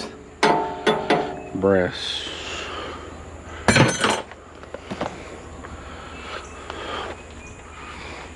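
Metal scrap being handled: a few light clinks, then a loud rattling clank about four seconds in, and a couple of small taps after.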